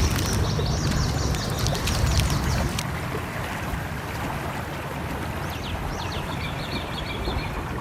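Layered nature ambience: a stream's flowing water gives a steady rumbling wash. Birds chirp in quick runs of short notes during the first few seconds and again past the middle. Faint fireplace crackles tick over it early on.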